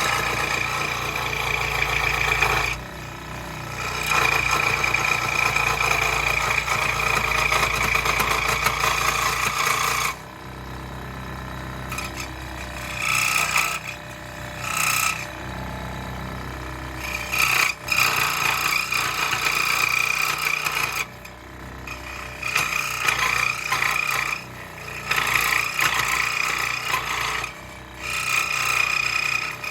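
Scroll saw cutting through wood: the motor hums steadily while the reciprocating blade rasps through the board, the cutting sound stopping and starting several times as the piece is fed and turned.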